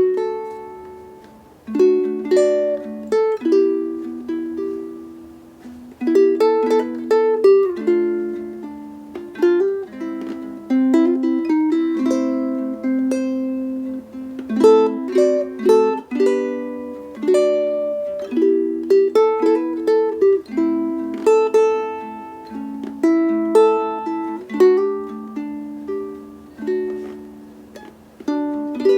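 Solo ukulele played fingerstyle: a melody over plucked chords, each note ringing and dying away.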